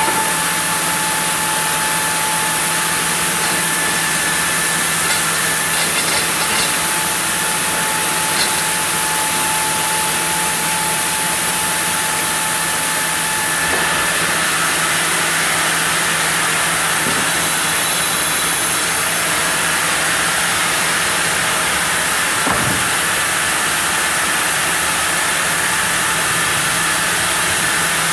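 Sawmill saw running and cutting through a block of zelkova hardwood: a steady, loud machine noise with a thin whine whose pitch changes about halfway through.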